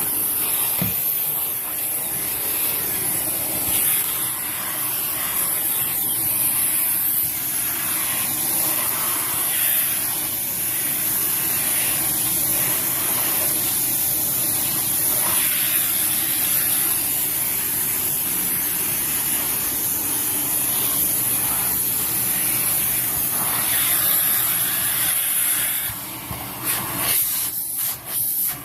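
Dyson Cinetic Big Ball canister vacuum cleaner running steadily with a high hiss, its tangle-free turbine tool working carpeted stairs. Near the end the sound drops and surges several times as the tool is pulled off and put back on, which the user does because the airflow didn't sound all there, a drop she puts down to the hose being stretched too far.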